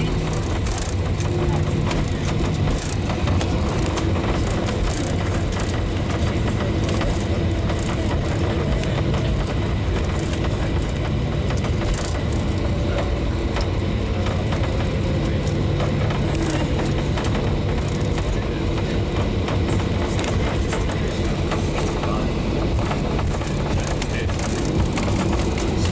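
Cabin noise of a Boeing 737-800 rolling on the ground after landing: the CFM56-7B engines' steady low hum with the rumble of the landing gear over the pavement, and scattered small knocks and rattles.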